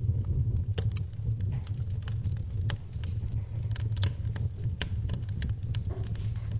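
Wood fire in a fireplace crackling, with irregular sharp pops and snaps over a low, steady rumble, and rain in the background.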